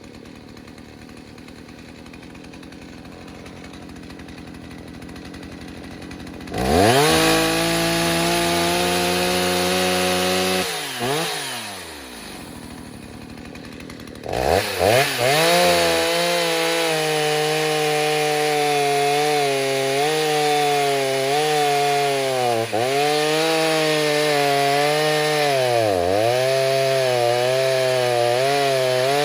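Stihl 029 two-stroke chainsaw, rebuilt with a 45 mm big-bore cylinder and a modded muffler, idling and then revved to high speed for about four seconds before dropping back to idle. It is then revved up again and held at high revs, with two brief dips in speed near the end.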